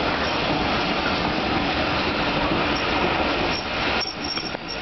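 Passenger coaches of a steam train rolling along the rails as the train pulls away, a steady rumbling noise with a thin, high wheel squeal near the end.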